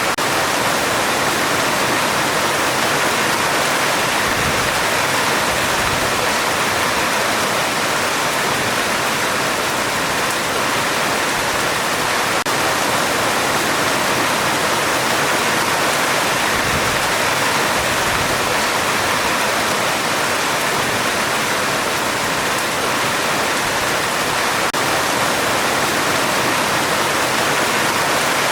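Heavy rain falling steadily on a metal roof: a dense, even hiss with no break.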